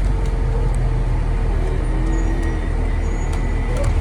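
Inside the cabin of a 2017 Blue Bird Vision school bus on the move: steady low engine and road rumble with a constant hum and a few light ticks and rattles.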